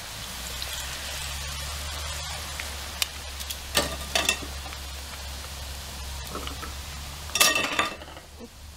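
Tempura-battered catfish fillets deep-frying in hot oil: a steady crackling sizzle. A few sharp clicks come about halfway through, and a louder short clatter near the end.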